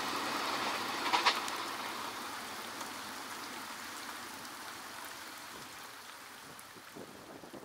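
Passenger train rolling away on the rails, its wheel noise fading steadily into the distance, with one sharp clank a little after a second in.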